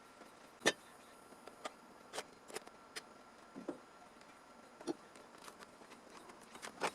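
Irregular light clicks and taps, about a dozen over several seconds, the sharpest about a second in and near the end, with a faint steady tone under the first part.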